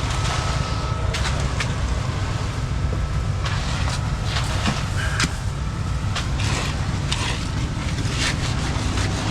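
Concrete mixer truck's diesel engine running steadily, with irregular short hisses over it.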